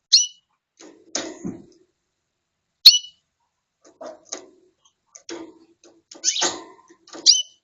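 Canary calling in short, high chirps that sweep down in pitch, three loud ones at the start, near the middle and near the end. Softer ticks and rustles come in between.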